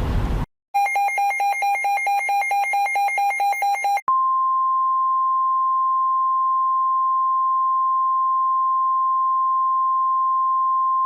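NOAA Weather Radio alert: a rapid pulsing burst of SAME data tones, then from about four seconds in the steady 1050 Hz warning alarm tone, held unbroken, signalling an incoming severe-weather message. A gust of wind noise cuts off half a second in.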